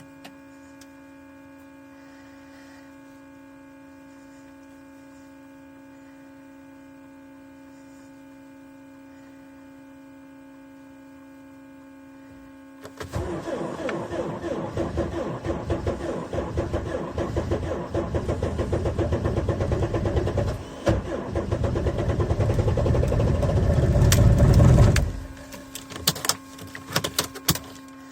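A 2005 Mercedes-Benz Vito's OM646 four-cylinder common-rail diesel cranking on a weak battery in about −28 °C cold, starting after a steady hum and running for about twelve seconds in a rhythmic pulse. The pulse grows louder toward the end and then stops abruptly, and a few clicks follow.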